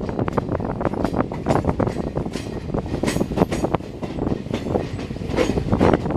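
LHB passenger coaches rolling on the track: a steady rumble of wheels on rail with many irregular rattling clicks and clanks.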